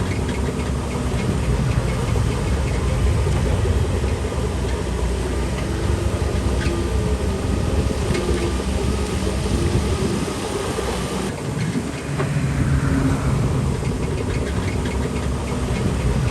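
Crawler bulldozer's diesel engine running steadily under load, with a few sharp metallic clanks from the machine about halfway through. The engine note drops briefly and shifts about twelve seconds in.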